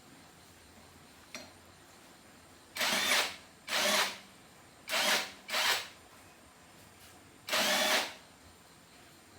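Electric power drill run in five short bursts of about half a second each, with pauses between them.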